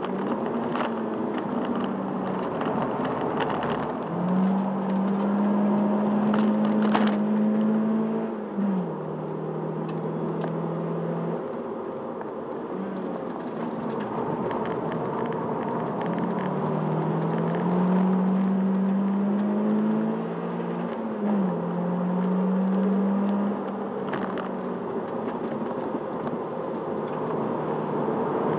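Toyota Celica's engine heard from inside the cabin, climbing slowly in pitch under acceleration and dropping sharply at an upshift about a third of the way in and again about two-thirds through, over steady road and wind noise.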